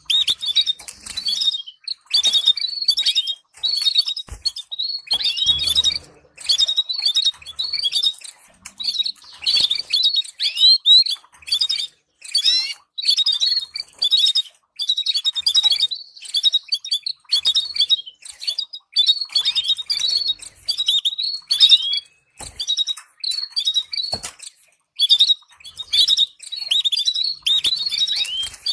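Canary singing: fast trills and chirping phrases in bouts of a second or two, broken by short pauses. There are a few soft low knocks in between.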